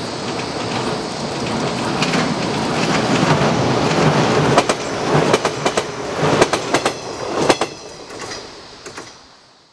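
A JR West 115 series electric train crosses a rail bridge and passes close by. Its rumble builds for the first few seconds. From about the middle on, the wheels click sharply and unevenly over the rail joints as the cars go past. The sound then fades away near the end.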